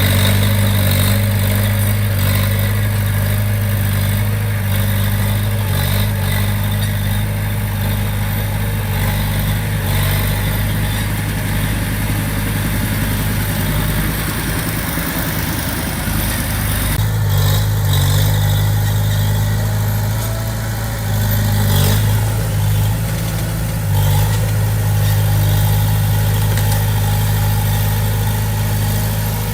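Diesel engine of a small Komatsu D20P crawler bulldozer running steadily at working speed. Its low note wavers briefly about halfway through, then holds steady again.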